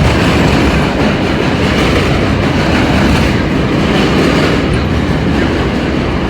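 R32 subway car running between stations, heard from inside the car: a steady, loud rumble of wheels on rails.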